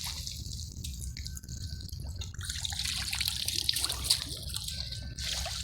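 Water dripping and trickling over a low, steady rumble, with scattered small ticks.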